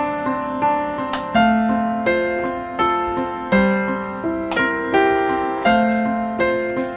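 Background piano music: a gentle melody of repeating notes over held bass notes.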